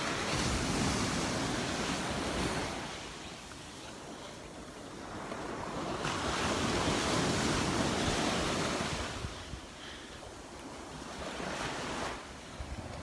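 Gulf of Mexico surf washing onto the beach, swelling and fading twice, with a third swell rising near the end, and wind buffeting the microphone.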